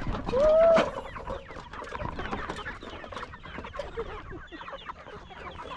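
A flock of chickens clucking and calling, with one loud drawn-out call about half a second in and many short clucks after it.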